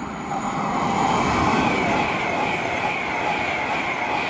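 Class 390 Pendolino electric express train passing at speed without stopping: a rushing noise of wheels on rail and air that swells about a second in as the train reaches the platform. A high wavering whine rides over it from about halfway through.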